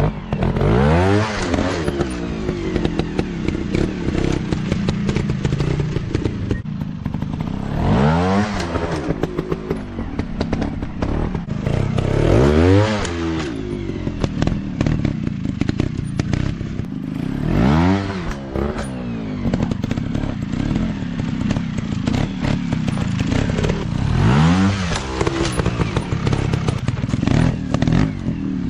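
Off-road motocross bike engines revved hard in repeated bursts, the pitch climbing and dropping back about five times, several seconds apart, with clattering and scraping from riding over rough ground.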